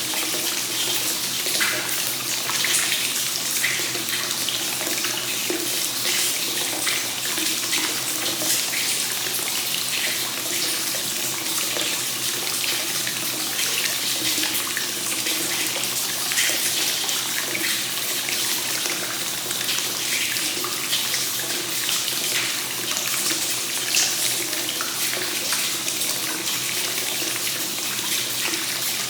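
Hot spring water flowing steadily from a free-flowing spout into a bath, splashing and trickling without a break.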